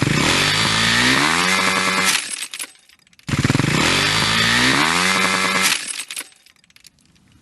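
Motocross bike's two-stroke-style engine revving hard, rising in pitch, then dropping off. This happens twice, the second burst a near copy of the first.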